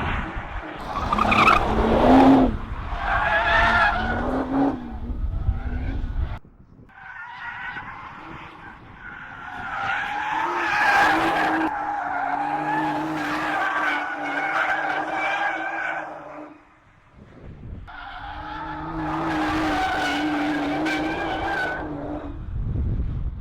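A 2015 Nissan GT-R R35's 3.8-litre twin-turbo V6 revving hard, then held high through two long drifts with the tyres squealing over it. There is a brief lull between the drifts.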